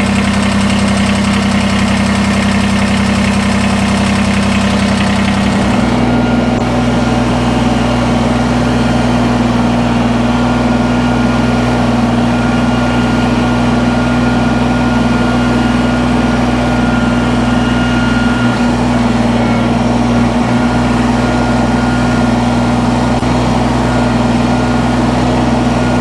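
Engine of a loader tractor running steadily at idle. About six seconds in, its speed rises slightly and then holds.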